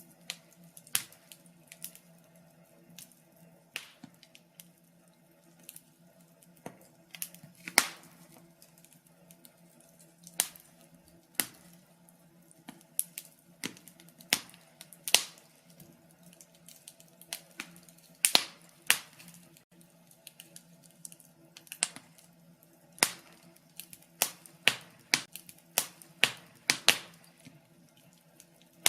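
Wood fire crackling in a fireplace: irregular sharp pops and snaps, sometimes several in a second, over a faint steady hum.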